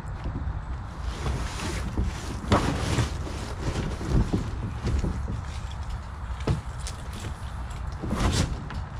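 Wind rumbling on the microphone, with a few scattered knocks and handling noises.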